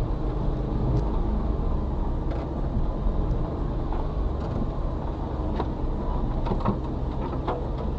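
A Suzuki Carry kei truck's 660cc three-cylinder engine running steadily at low revs, heard from inside the cab as it crawls over rough forest track, with a few short knocks and rattles from the body and suspension.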